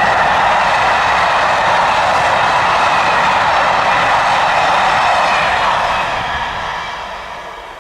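A passing train, loud and steady, then fading away over the last two seconds as it moves off.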